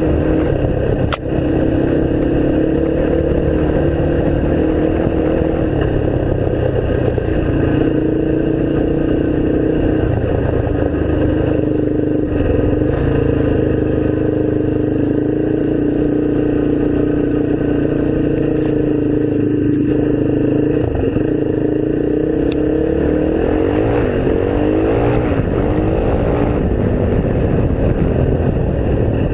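Off-road vehicle engine running under way, mostly steady, with its pitch rising and falling in the last few seconds. There is a sharp click about a second in.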